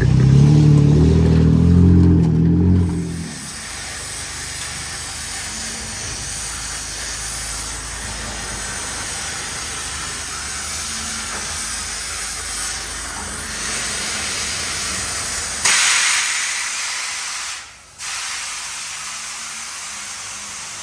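Ford F-150's 2.7 L twin-turbo EcoBoost V6 running loudly for about three seconds, then cutting out. After that, a steady hiss with a faint high whine, and a sudden louder burst of hiss about three-quarters of the way through.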